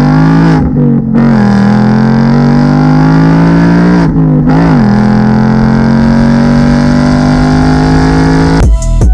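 2019 Ford Mustang GT's 5.0-litre V8 on its stock exhaust accelerating hard: the engine note climbs steadily, with two upshifts where the pitch drops briefly, about a second in and about four and a half seconds in. Near the end it cuts to music with a sharp beat.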